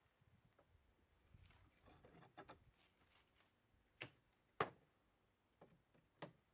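Near silence with a few faint, sharp knocks or taps, the loudest about four and a half seconds in.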